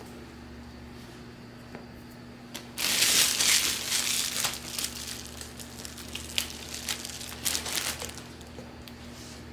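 Packaging being handled and crinkled: quiet at first, then a loud rustle about three seconds in that thins into scattered crinkles and light clicks. A steady low hum runs underneath.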